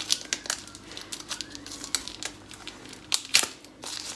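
Plastic baby bottles and their parts being handled and set down: irregular clicks, taps and crinkling of plastic, with a couple of sharper knocks about three seconds in.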